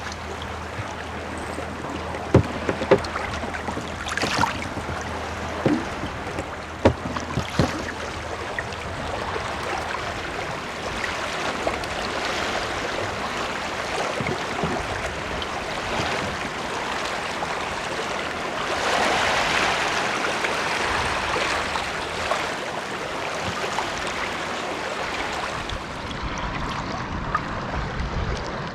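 Kayak paddling on calm sea: paddle strokes splashing and water washing along the hull, with a few sharp knocks in the first several seconds.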